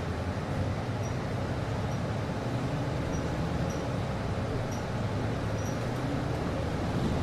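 Steady hum and whoosh of a city bus's air conditioning over the low rumble of the bus, heard inside the cabin. A faint, short high-pitched chirp repeats about once a second.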